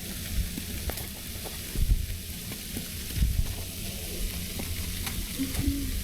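Snowstorm ambience: a steady hiss with scattered small crackles, and gusts of wind rumbling on the microphone, strongest about two and three seconds in.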